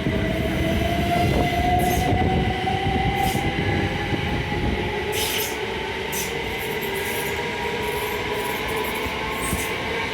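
Electric train running at the platform, its motor whine slowly rising in pitch as it gathers speed, with several short high-pitched wheel squeals.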